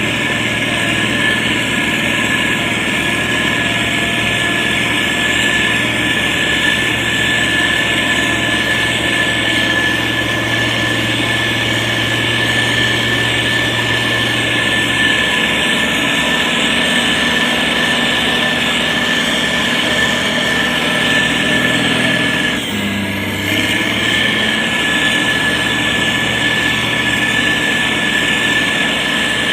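Diesel engine of a SANY STG190C-8S motor grader running steadily, with a steady high whine over it. Its low note shifts about halfway through, and the sound drops briefly about three-quarters of the way through.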